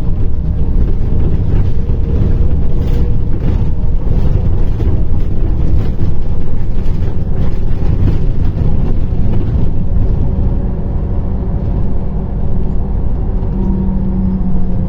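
Interior sound of a MAZ-105 articulated city bus under way: a steady low rumble of engine and road with light rattles, the engine note strengthening slightly near the end.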